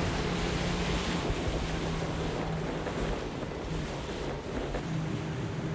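A small boat's motor running with a steady low hum, under wind buffeting the microphone and the wash of water.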